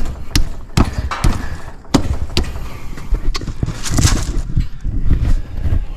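Irregular knocks, clicks and rustling of hands handling wiring and parts inside an air conditioner's outdoor condenser unit while it is switched off.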